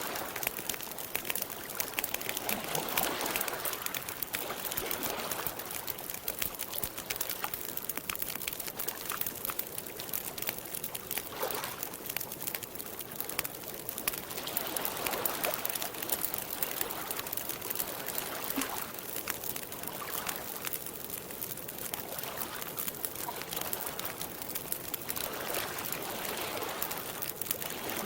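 Campfire crackling with a steady run of small pops, over soft swells of lake water lapping every few seconds.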